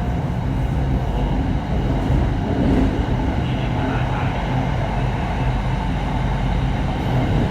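Steady low rumble and hum of a Red Line Hitachi electric commuter train.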